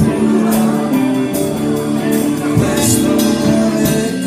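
A live rock band playing, with electric guitar, drums and a singing voice.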